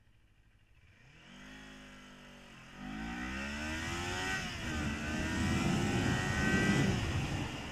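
Kawasaki Ninja 400's 399 cc parallel-twin engine accelerating hard from a standstill, its pitch climbing and dropping back at the upshifts about three and five seconds in. The sound grows louder until it eases off near the end.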